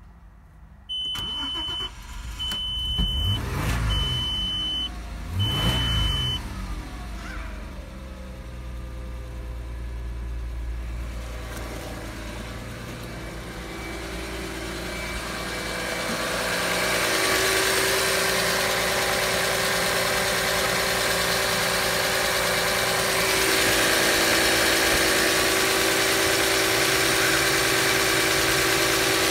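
Audi A6 C5's 2.4-litre V6 petrol engine (ARJ) starting about a second in while a dashboard warning beep sounds four times, revved briefly twice, then idling steadily. In the second half the idle is heard close up from the engine bay and is louder.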